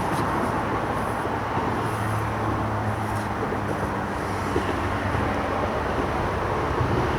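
Steady drone of road traffic crossing a nearby road bridge, with a passing vehicle's engine hum adding a low note between about two and four seconds in.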